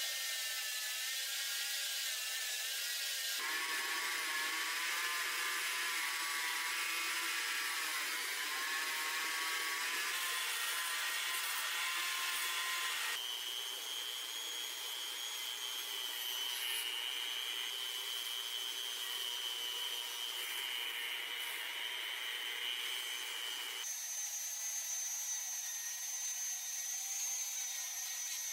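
A small electric power tool runs against the steel of the scissors: a steady high whine over a rasping noise. The tone changes abruptly three times, about 3, 13 and 24 seconds in.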